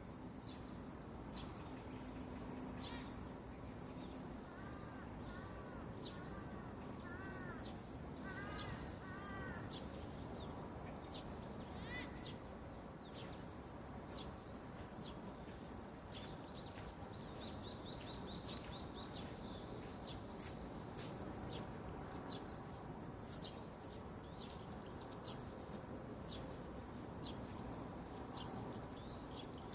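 Wild birds calling in the morning: short high chirps repeat throughout, a run of arched lower calls comes in the first third, and a brief high trill a little past halfway, over steady background noise.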